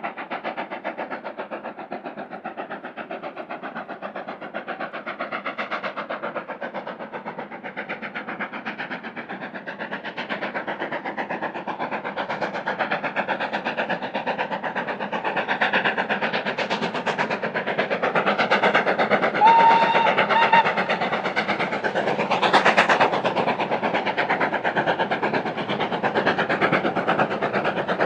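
Steam locomotive working hard, its exhaust beating rapidly and getting steadily louder as it approaches, with a brief whistle about two-thirds of the way through.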